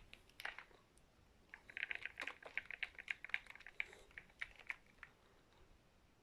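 Faint run of light, irregular clicks and taps from kitchen utensils and the blender jug, lasting about three and a half seconds from a second and a half in.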